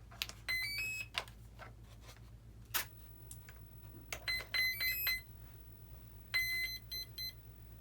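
Brushless motor speed controllers of an RC warbird beeping their power-up tones through the motors as the flight battery is connected with the throttle down: a short rising run of tones about half a second in, then two groups of steady beeps later. Sharp clicks of handling fall between the beeps.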